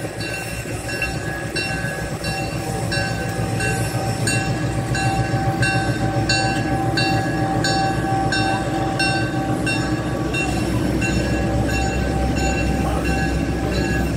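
A diesel switcher hauling a mixed freight train rolls slowly past, its engine rumbling low and growing louder after a few seconds. A bell rings steadily, a little under twice a second.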